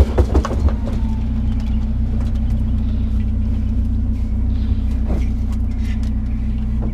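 A vehicle engine idling steadily, with a few knocks in the first second.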